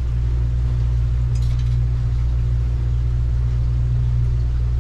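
Boat's main motor running steadily at cruising speed, a constant low drone with no change in pitch or level.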